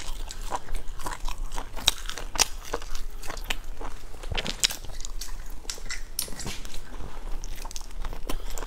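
Close-up mouth sounds of chewing and biting a crispy, sesame-coated fried food: irregular sharp crunches throughout, with a fresh bite near the end.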